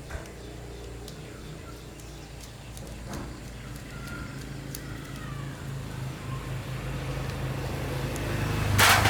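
Small engine running steadily with a low hum, slowly growing louder, then a loud burst of noise near the end before it cuts off suddenly.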